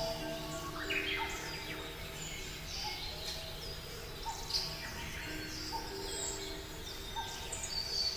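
A chorus of birds chirping and singing, with many short high calls and quick pitch glides overlapping, over a steady background of low held tones.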